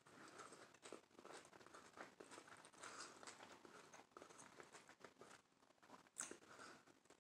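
Faint chewing of a mouthful of avocado toast, irregular soft mouth and crunch sounds, with one sharper click about six seconds in.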